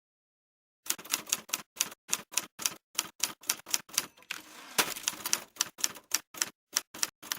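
Typewriter keys clacking in a quick run of about three to four strokes a second, with a brief rasping stretch about halfway through.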